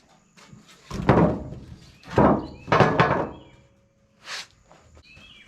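Sawn cedar boards being dropped onto a stack: three heavy wooden thuds with clatter, the first about a second in and the next two close together, then a lighter knock.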